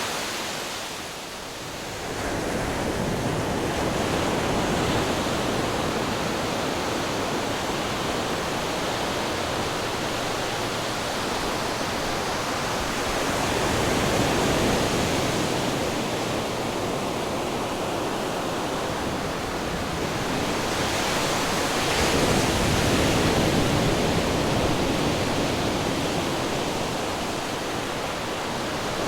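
Ocean waves breaking on rocks: a continuous roar of surf that swells with each wave, loudest about 14 s in and again from about 22 s, with a brief lull about a second in.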